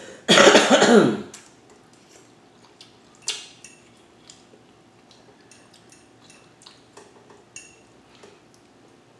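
A woman coughs once, loudly. It is followed by a few light clicks of cutlery against dishes.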